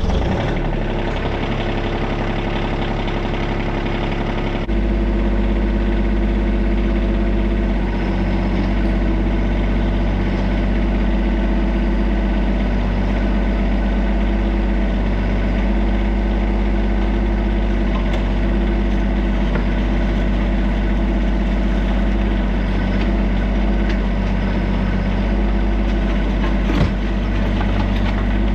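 Compact tractor-backhoe's diesel engine running just after starting, idling steadily; about five seconds in its note steps up and deepens, then it holds a steady run. A single brief knock near the end.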